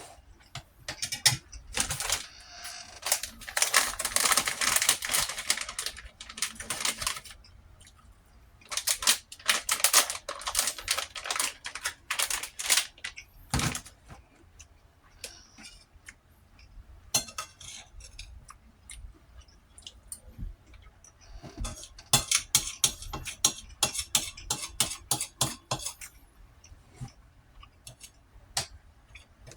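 Utensil scraping and clinking against a plate while scooping rice, in three bouts of rapid clicks and scrapes, with one heavier knock about halfway through.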